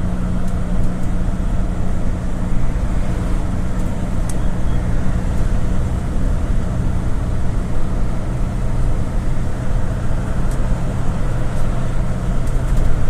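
GAZ Gazelle City minibus under way, heard from inside: a steady engine and road drone whose low hum shifts lower about three seconds in, with a few light rattles.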